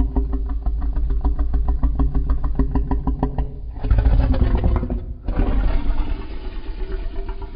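Custom monster-roar sound effect: a deep, rumbling growl with a rapid, engine-like pulse. About four seconds in it swells into a harsher, louder blast, breaks off for a moment, then the pulsing growl resumes.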